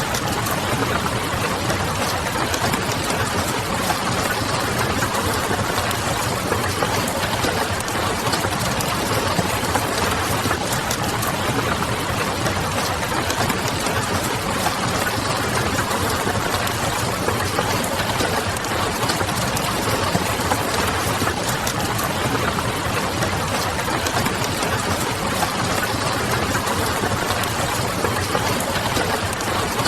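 Steady rain pattering on a window mixed with the crackle of a wood fire, many small pops and ticks over an even wash of rain noise, and a low hum underneath.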